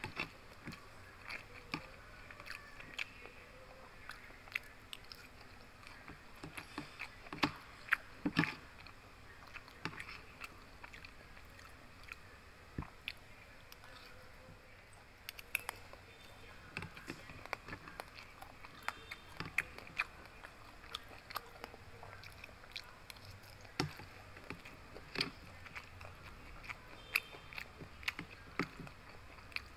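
Close-up eating sounds: chewing and biting mouthfuls of fried pork belly and rice, with many small irregular clicks, and a metal spoon tapping and scraping a plastic food container.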